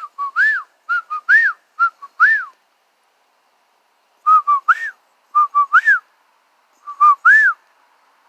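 A person whistling an imitation of the eastern whip-poor-will's song to call the birds in: six 'whip-poor-will' phrases, each two short notes and a longer note that rises and falls, in two runs of three with a pause of about two seconds between.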